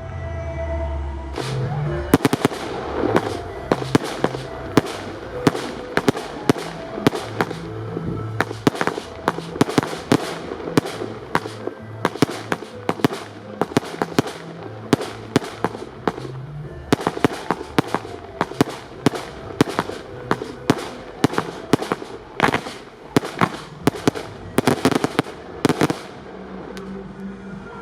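Fireworks going off in a rapid, irregular string of sharp bangs, several a second, starting about two seconds in and stopping near the end, over background music with a steady bass line.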